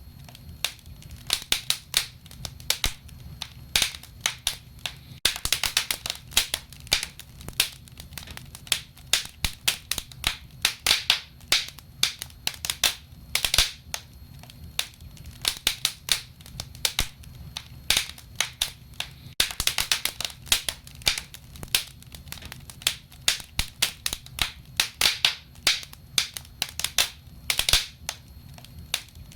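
Wood fire crackling: irregular sharp pops and snaps, some in quick clusters, over a low steady hum.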